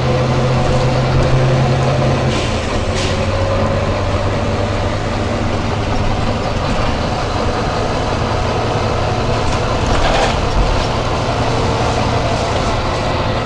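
Volvo B9TL bus's diesel engine running steadily, its note dropping about two seconds in, with a few brief hisses of compressed air from the bus's air system, two close together early on and one near ten seconds.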